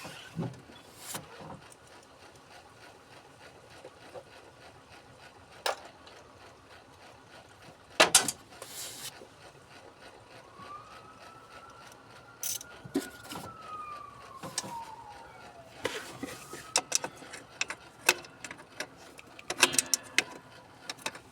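Scattered clicks and knocks of tools and metal parts while the mounting screws of a Scania truck's gas pedal are worked on, one sharper knock about 8 s in and quicker ones near the end. Midway a faint single tone rises a little, then glides down over several seconds.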